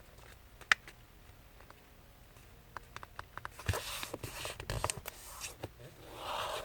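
A thin sheet of paper being folded in half and creased by hand: a single sharp tap about a second in, then a run of small crackles and rustles, with a longer rustling swipe near the end as the fold is pressed flat.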